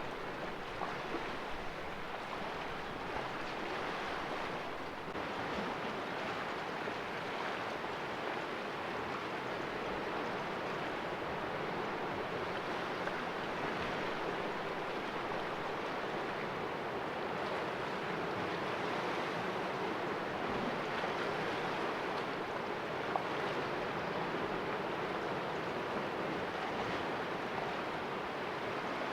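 Sea waves washing and splashing against rocks in a small cove, a steady surf wash that swells and eases gently.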